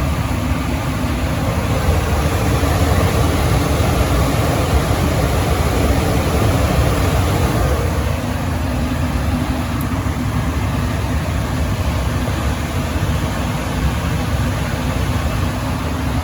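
Gas furnace running on a jumpered R–W call for heat, a steady hum and rush of its fans, a little louder for a few seconds in the first half.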